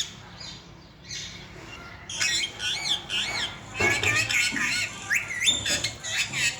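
Baby parakeets squawking and chirping: faint calls at first, then from about two seconds in a run of loud, quick calls with fast up-and-down slides in pitch.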